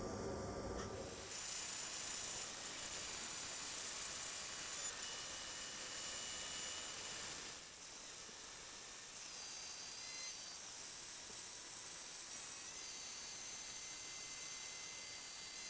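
Machine tool running while a small engine part is being machined: a steady high hiss with thin, high whining tones that step in pitch a few times.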